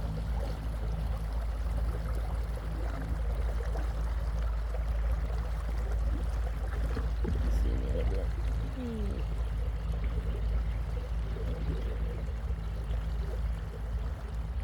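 Small boat moving across calm water: water rushing and splashing along the hull over a steady low rumble.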